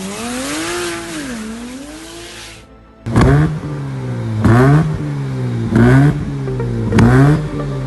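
A car engine revving up, dropping back and rising again, then cut off. After that comes background music with a steady low note and a rising accent repeating about every second and a half.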